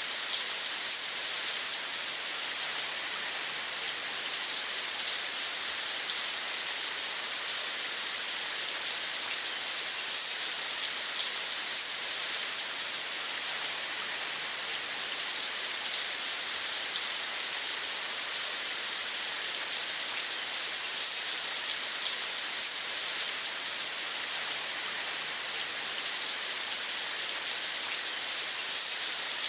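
Steady rain falling, an even hiss with fine pattering drops.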